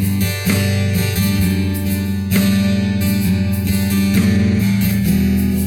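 A band playing an instrumental passage with no vocals, led by strummed guitar chords over a steady low bass line.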